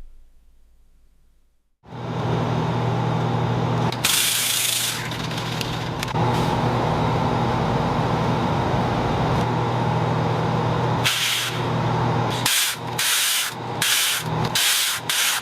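Hissing spray in short bursts over a steady mechanical hum, starting after a brief silence, with several quick bursts near the end.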